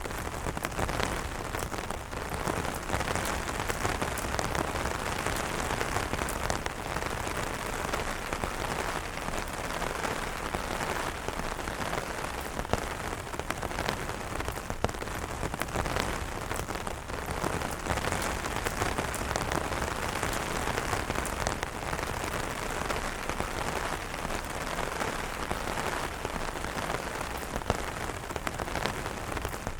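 Steady rain falling on umbrellas, a dense even hiss of drops with many sharper individual drop taps scattered throughout.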